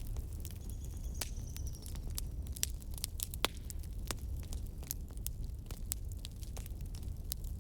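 Campfire crackling: irregular sharp pops and snaps over a steady low rumble. A faint high thin whistle, falling slightly, sounds for about a second shortly after the start.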